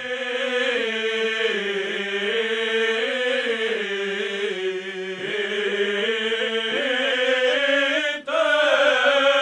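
Men's voices singing Byzantine chant: a slow melody over a steady held drone, with a short break about eight seconds in.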